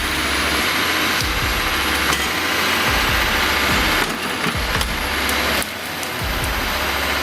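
Engine of a heavy forestry machine running steadily, with a thin high whine above it and a brief drop in level about four seconds in and again near the end.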